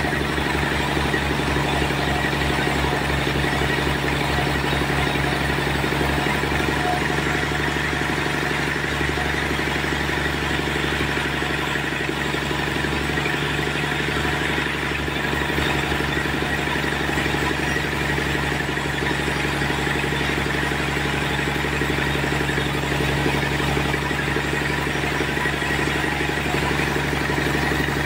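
Sawmill machinery running steadily, a constant engine-driven drone with no breaks.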